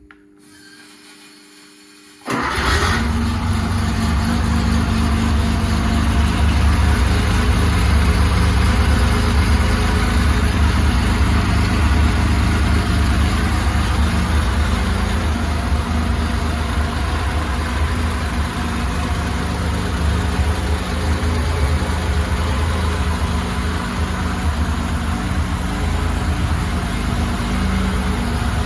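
Freshly rebuilt 1969 Porsche 911E air-cooled flat-six, coupled to its gearbox on a test bench, starts abruptly about two seconds in and then runs steadily.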